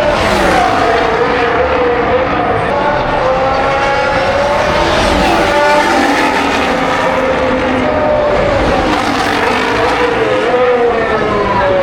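Racing car engines running at high revs, their pitch rising and falling repeatedly as they accelerate and shift, with more than one engine heard at once.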